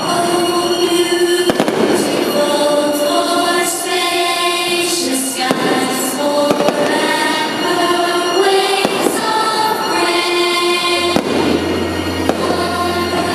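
Fireworks bursting, scattered sharp bangs, over loud music with long held notes.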